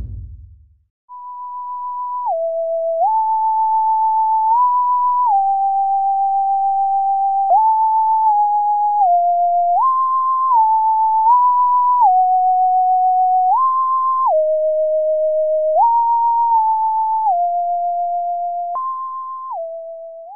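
A slow, simple electronic melody played as a single pure beep-like tone, stepping from note to note with each note held for about half a second to two seconds; it swells in over the first few seconds and fades out near the end.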